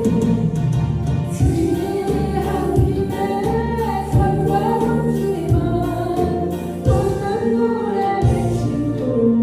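Singing of a Korean trot song over a backing track, with a steady drum beat.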